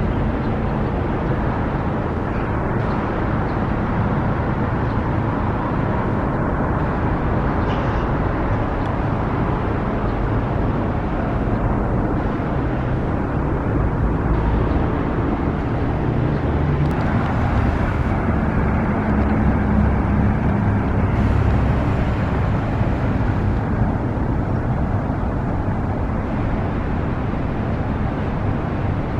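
Street traffic: road vehicles running and passing, a steady rumble of engines and tyres that swells and fades.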